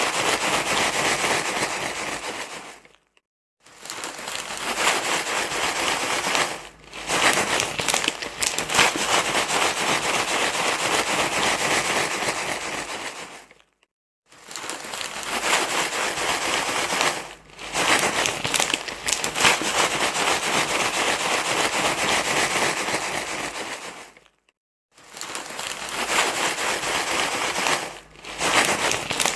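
Continuous crinkling rustle of a crinkly material being handled. Short breaks come about every ten seconds, with brief dips in between.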